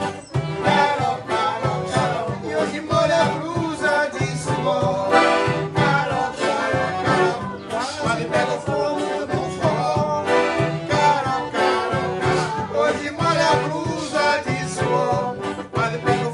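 Forró pé de serra music: an accordion playing the melody over a steady, driving percussion beat.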